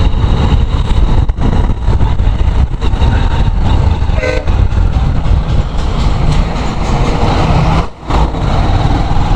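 Motorcycle riding at road speed: steady engine and wind rumble on the rider's microphone. A short horn toot sounds about four seconds in.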